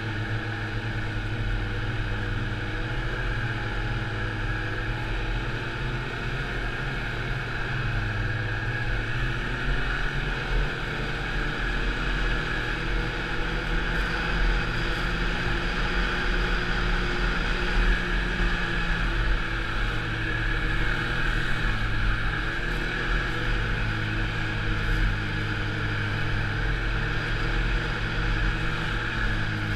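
Snowmobile engine running steadily under way, its pitch drifting slightly with the throttle and growing a little louder about halfway through.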